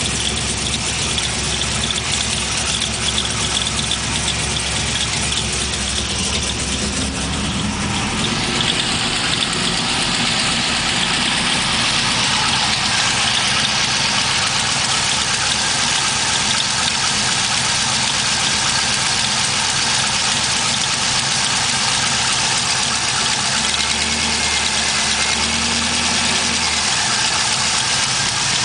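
Chevrolet LS1 V8 idling steadily with a fast, even ticking like a valvetrain tick; the sound grows brighter about eight seconds in. The tick, first taken for a collapsed lifter, turned out to be an exhaust leak.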